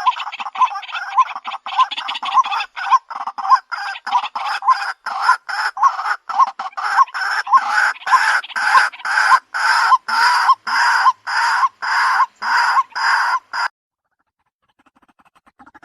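White-breasted waterhen calls from a recording made for luring birds: a fast, even series of clucking calls, about two a second, that stops suddenly about two seconds before the end.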